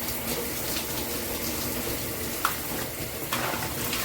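Water spraying steadily from a 2-in-1 rain and handheld shower head. Two short clicks come about halfway through and again a second later, as the diverter switch is turned to send the water to the handheld.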